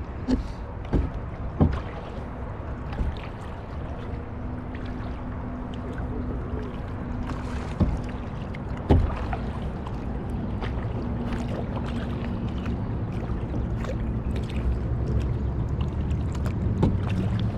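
Kayak being paddled: the paddle blades dip and splash in the water over a steady low rumble. There are a few sharp knocks, several in the first two seconds and two more around eight and nine seconds in.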